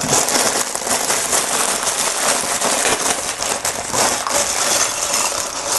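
Plastic packaging crinkling and rustling as it is handled, a dense crackle of small clicks.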